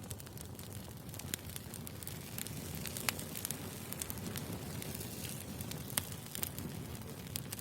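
Firewood burning: a steady low rumble of flames with scattered sharp crackles and pops, a few of them louder, about three and six seconds in.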